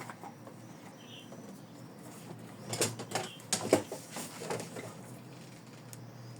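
Rummaging through tools and objects on a work table while searching for a missing tool: a few short clattering, rustling handling noises about three to four and a half seconds in.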